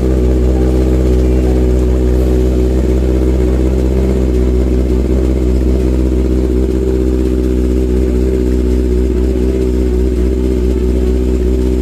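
Kawasaki Ninja ZX-6R's inline-four engine idling steadily at an even pitch after a cold start.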